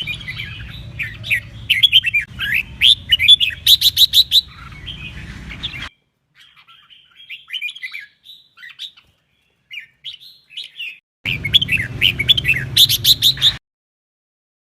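Red-whiskered bulbul song: quick phrases of clear warbling whistles with a fast run of repeated notes, in spurts that cut off abruptly. A low hum sits under the loud spurts, and there is a quieter stretch of sparser phrases in the middle.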